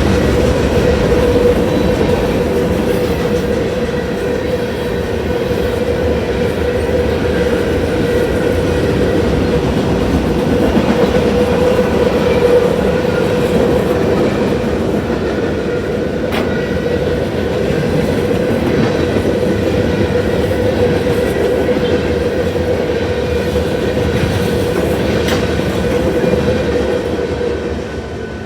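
Freight cars of a Union Pacific mixed freight train rolling past at the crossing: a loud, steady rumble and clatter of wheels on the rails, with a steady hum running through it. The sound starts to fade near the end.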